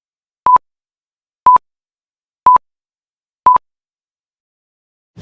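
A pure electronic beep tone, each beep about a tenth of a second long, repeating once a second, four times.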